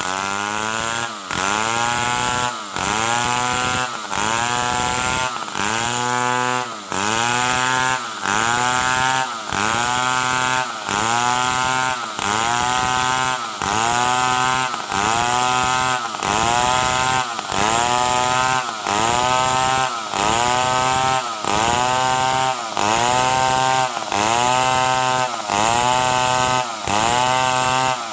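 Stihl 070 two-stroke chainsaw running at high revs while cutting wood, its engine pitch sagging and recovering in a steady rhythm roughly every 1.4 seconds as the chain loads up in the cut.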